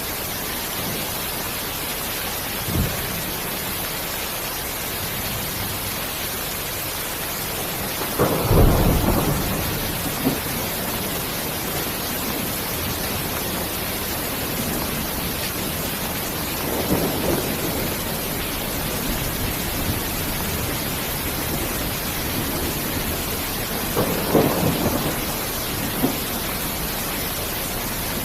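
Steady rain hiss with low rolls of thunder rumbling in several times. The loudest roll comes about eight seconds in, with softer ones near the middle and toward the end.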